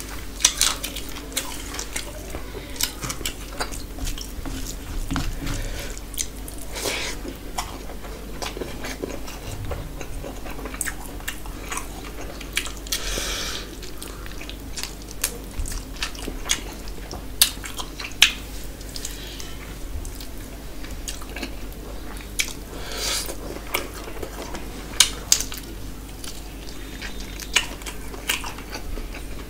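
A person eating rice and curry with their hand: chewing and wet mouth smacking with many sharp clicks, a few longer wet sounds, and fingers working food on a steel plate, over a low steady hum.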